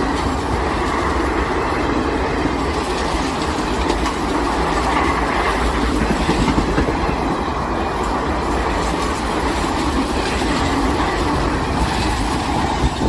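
Express passenger train passing close at speed, its coach wheels clattering rapidly over the rail joints in a loud, continuous rattle.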